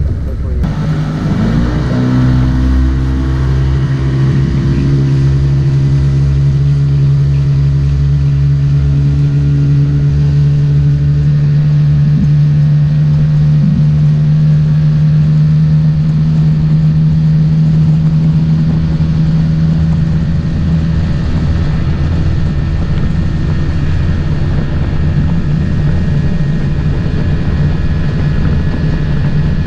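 Motorboat engine speeding up in the first couple of seconds, then running steadily at a constant pitch over a continuous low rumble.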